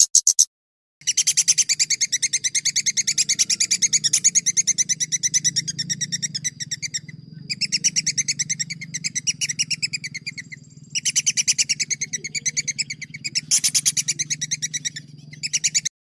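A songbird singing a fast rolling trill of rapidly repeated high notes, in long runs broken by a few short pauses, with a faint low hum underneath; it cuts off abruptly just before the end.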